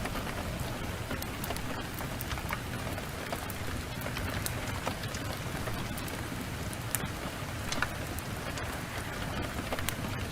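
Heavy rain falling steadily, with scattered sharp crackles and pops from a wood fire.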